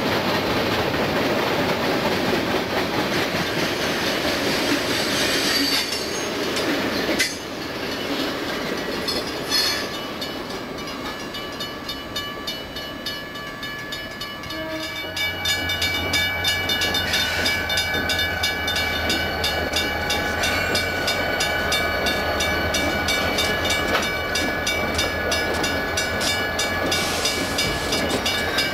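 Freight train of covered hopper cars rolling past, its wheels clicking over the rail joints; after a sudden break about seven seconds in, the sound drops to quieter noise. About halfway through, a diesel locomotive's steady low engine drone sets in with several thin steady tones above it, and runs on to the end.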